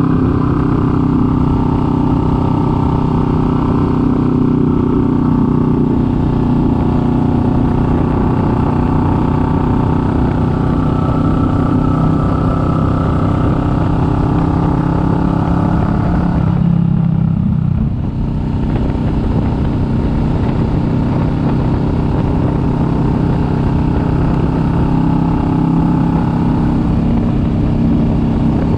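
Kawasaki Vulcan S 650's parallel-twin engine running steadily while riding, over wind and road noise. There is a short drop in sound about seventeen seconds in before it picks up again.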